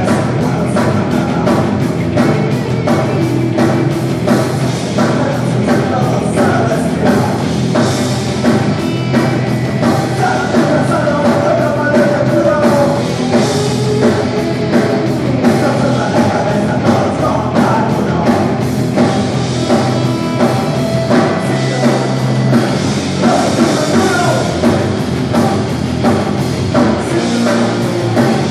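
Punk rock band playing live at full volume, the drum kit driving a fast, steady beat under the band and a singing voice.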